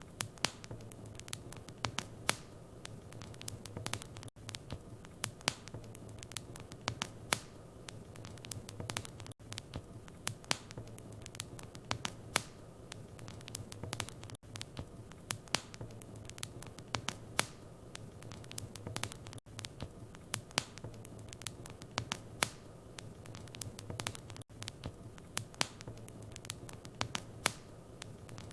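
Wood fire burning in a fireplace, crackling with irregular sharp pops and snaps over a steady low hum. The sound drops out briefly about every five seconds.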